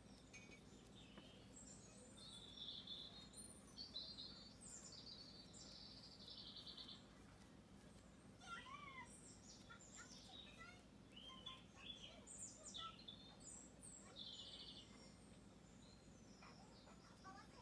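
Faint birdsong: many short chirps and trilled calls from several birds, with some sliding notes about halfway through.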